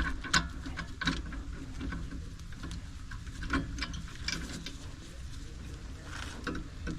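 Hand wrench tightening a nut on a rear sway bar stabilizer link: a run of short, irregular metallic clicks and taps.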